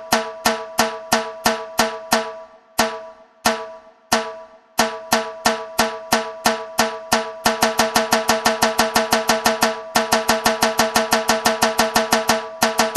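A drum beaten with sharp, pitched strokes in a steady rhythm, about three a second, then doubling to a faster beat about halfway through.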